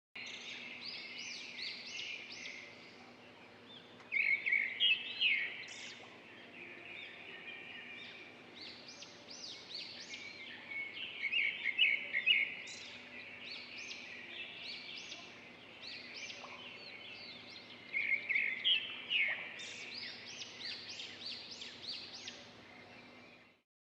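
Many small birds chirping and calling at once in overlapping short notes, with three louder bursts of rapid chirping.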